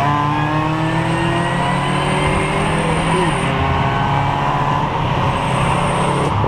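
Car engine accelerating hard in a pull (roll race), its pitch climbing steadily through a gear, with a shift about three and a half seconds in and then climbing again. A thin high whine rises along with each climb.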